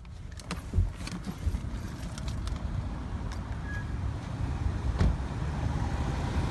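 Car on the move: a steady low rumble of engine and road noise, with a few sharp knocks or clicks, the loudest about a second in and again about five seconds in.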